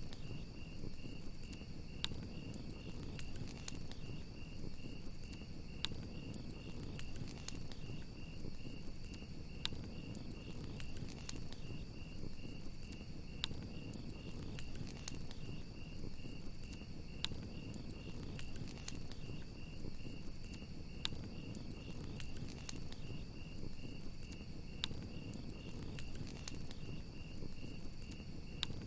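Crickets chirping in a fast, even pulse over a crackling campfire, with sharp pops of burning wood scattered over a low, steady rumble of the flames.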